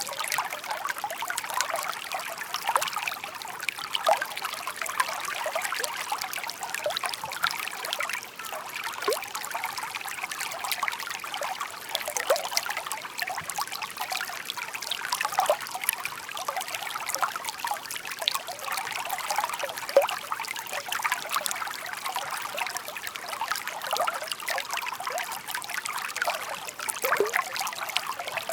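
Shallow stream babbling and trickling over stones, a steady patter of small splashes and gurgles.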